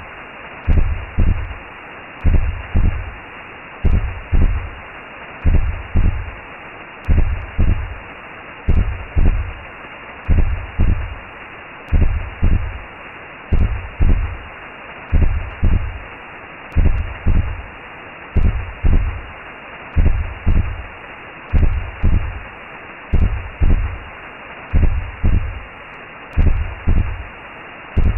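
Recreated womb sound for settling a baby: a low double-thump heartbeat about every 1.6 seconds over a steady muffled whooshing hiss.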